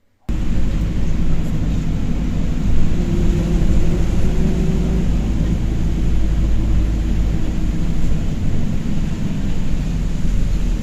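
Steady low rumble of a vehicle in motion, with a constant mechanical hum beneath it; it cuts in suddenly just after the start.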